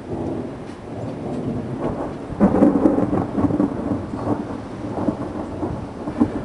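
Thunder from a nearby lightning strike: a low rumble breaks into a sudden loud crack about two and a half seconds in and rolls on with crackling peaks, over steady rain.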